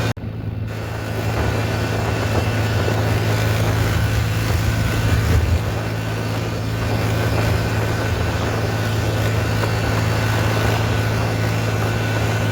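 Tractor engine running steadily under way, a constant low hum with road noise, after a momentary dropout at the very start.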